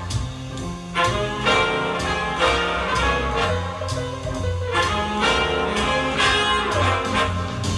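Music with brass instruments, played back through a small two-way bookshelf loudspeaker and picked up by a microphone in the room.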